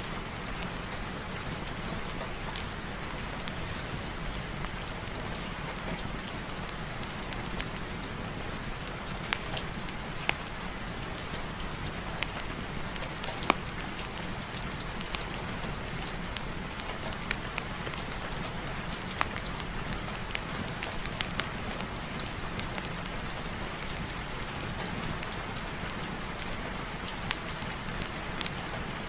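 Steady rain, with scattered sharp ticks and pops over an even hiss.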